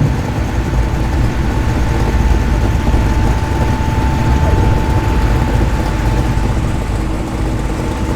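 A Ford car's engine running with a loud, steady low rumble as it rolls slowly in, with a thin steady whine over it.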